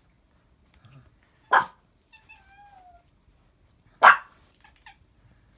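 A dog playing with a cat teaser wand barks twice, two short sharp barks about two and a half seconds apart. A faint whine falls in pitch between them.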